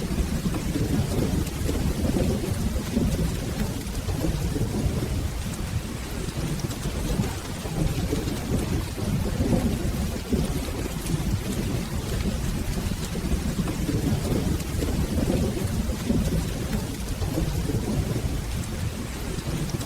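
Steady rain with a low, continuous rumble of rolling thunder that swells and eases.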